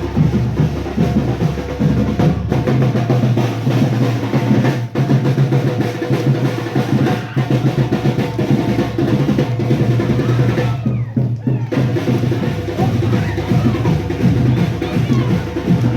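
Marching band drum line playing, with snare drum rolls over a steady bass drum beat.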